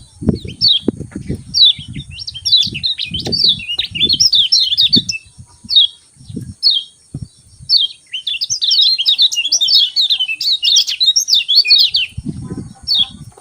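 Kecial kuning songbird chirping: rapid runs of short, sharp downward 'ciak' notes, with single chirps between the runs. Low dull thumps sound under the chirps in the first few seconds and again near the end.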